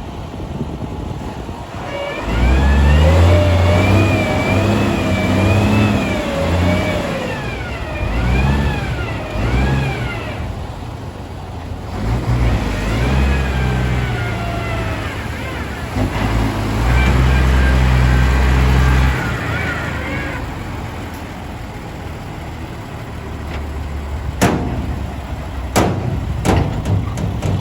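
Diesel ten-wheel dump trucks driving by, engines accelerating, with a wavering higher tone rising and falling over the engine noise through the first two thirds. A few sharp clicks come near the end.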